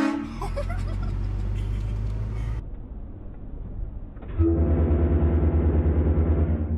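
Motor vehicle engine running with road noise for the first couple of seconds, then dropping back. About four seconds in, a louder, low engine note with a fast, even throb starts and holds.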